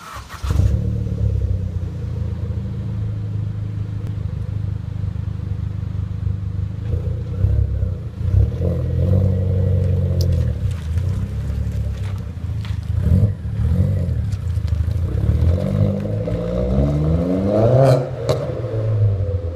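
Vauxhall Astra SRi Turbo engine starting up and idling, then revved up and down several times, with short sharp exhaust pops as the revs drop, the loudest near the end.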